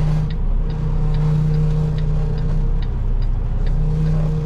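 Semi truck's diesel engine idling with a steady hum, heard from inside the cab while backing, with faint ticking about twice a second.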